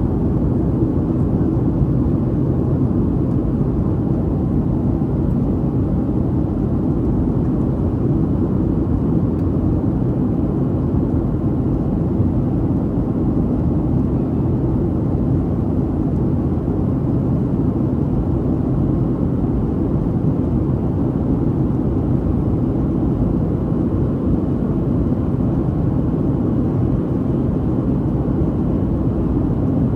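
Steady cabin drone of a Boeing 737-800 in flight, heard inside the cabin: the low rumble of its CFM56 jet engines mixed with airflow noise, unchanging throughout.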